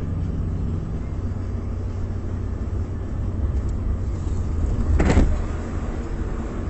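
Car engine and road noise, a steady low rumble, with one short, loud burst of noise about five seconds in.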